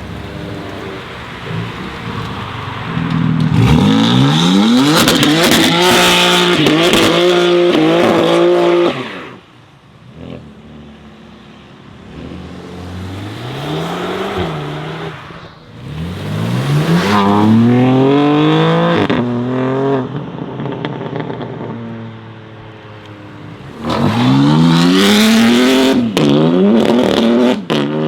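Modified sports cars accelerating hard, three loud runs in turn, each engine note climbing in pitch and dropping back at every upshift, with quieter engine running between the runs.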